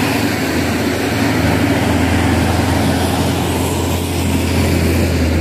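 Heavy truck engine running in a low, steady drone that grows louder about a second and a half in.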